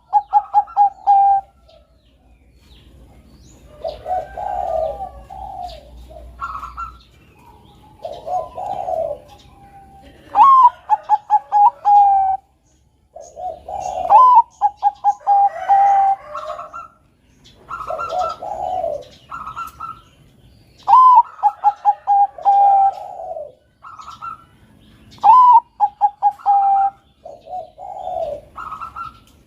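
Zebra dove (Bangkok-type perkutut) singing its cooing song over and over: each phrase a rising note followed by a quick run of short coos, repeated about every three to four seconds, with lower, softer coos between the phrases.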